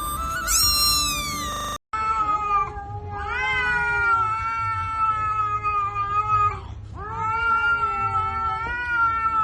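A cat yowling in long, drawn-out calls, a short one followed by two long ones of three seconds or more each. A brief stretch of music plays before them at the start.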